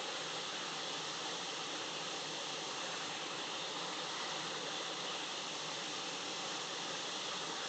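Hot air rework station blowing a steady hiss of air, heating a regulator on a PS5 board to lift it off.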